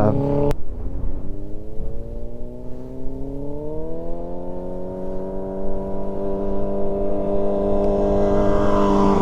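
Yamaha R6's inline-four engine pulling away and rising in revs, then holding steady as the motorcycle approaches and passes close, louder near the end.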